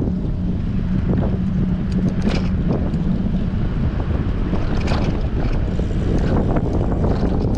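Strong wind buffeting the microphone of a camera on a moving bicycle: a steady low rumble, with a faint steady hum for the first few seconds and a few faint short sounds over it.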